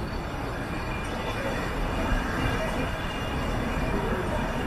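Nilgiri Mountain Railway metre-gauge passenger train rolling slowly along the track, heard from aboard: a steady rumble of wheels on rails. A faint high whine joins about two seconds in.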